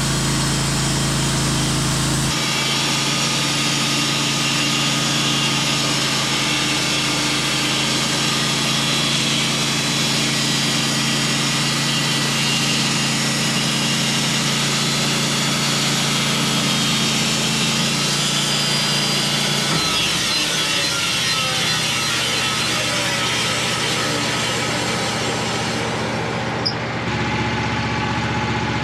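Sawmill engine running steadily under load as the mill saws through a white oak log; the engine note shifts about two seconds in and again near twenty seconds in.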